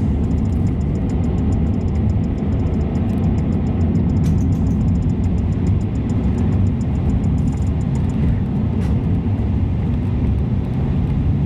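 Steady low road and engine rumble of a car driving, heard from inside the cabin, with a faint, fast, regular ticking over roughly the first seven seconds.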